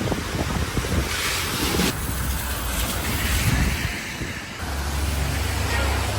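Rumble and rushing noise of a moving vehicle, with wind buffeting the microphone; the sound changes abruptly twice, as the shot cuts.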